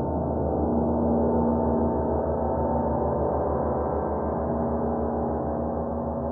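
A 32-inch Paiste Sound Creation Earth gong ringing on in a deep, dense wash of many overlapping tones, with a regular low pulsing throb underneath. It swells a little about a second in.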